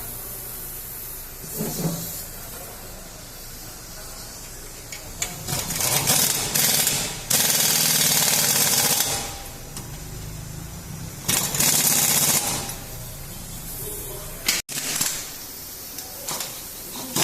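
Pneumatic impact wrench hammering in several bursts of one to two seconds, the longest near the middle.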